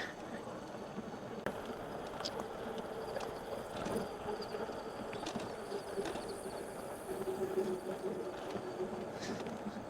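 E-bike riding noise: a steady hum with a held whine that dips a little in pitch in the second half, and a few short high chirps.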